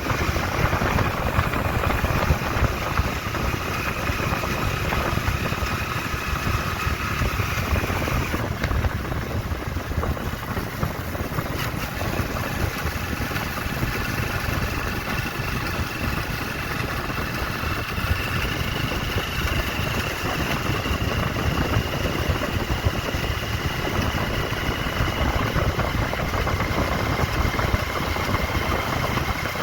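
A vehicle engine running steadily with a constant low rumble and a faint high whine that drifts slightly in pitch.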